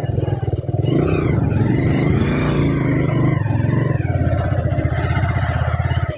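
Motorcycle engine running steadily under way, its fast firing pulses even throughout, until the sound drops away sharply right at the end.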